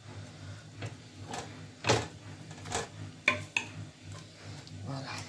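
A fork clicking and scraping against a metal roasting tray as roast chicken pieces are turned over. There are a handful of separate sharp knocks.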